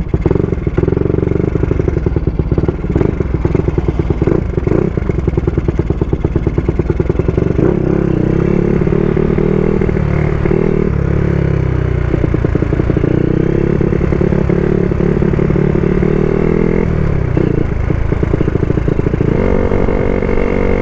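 Yamaha Sniper 135's single-cylinder four-stroke engine running under way. Its pitch rises and falls with throttle and gear changes.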